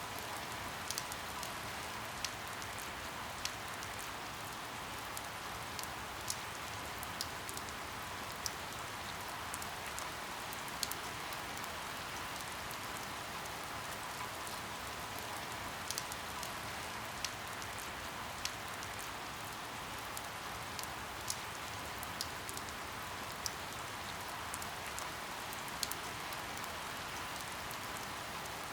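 Steady rain falling, with sharp drops tapping here and there at irregular intervals, a few every couple of seconds.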